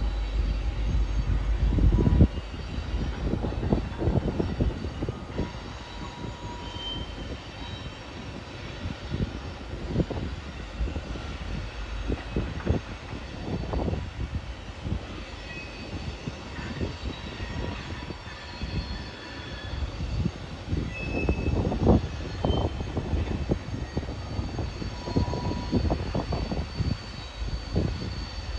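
Diesel locomotives hauling a freight train, heard from trackside as a steady low engine rumble with irregular low thumps.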